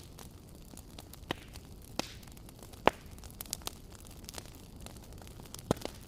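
Wood fire crackling: irregular sharp pops and snaps over a low steady rumble of the burning, the loudest pop about three seconds in.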